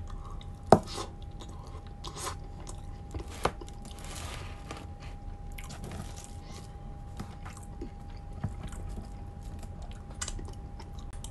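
Close-miked chewing and biting of mushy French fries, with scattered sharp mouth clicks; the sharpest click comes about a second in and another about three and a half seconds in.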